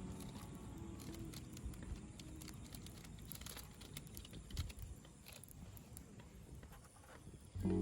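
Wood campfire crackling faintly, with small irregular clicks and pops over a soft low rumble. Background music comes in at the very end.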